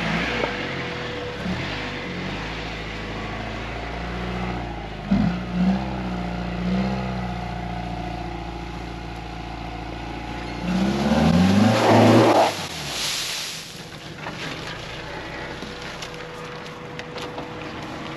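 Vehicle engine running steadily on a dirt trail, then revving up sharply for about a second and a half around eleven seconds in before settling back to a quieter idle.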